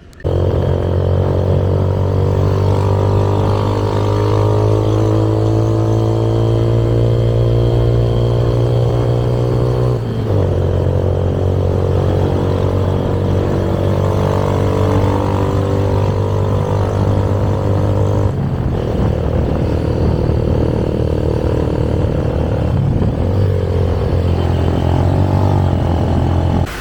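Motorbike engine pulling hard, its pitch rising slowly, then dropping at a gear change about ten seconds in and again near eighteen seconds.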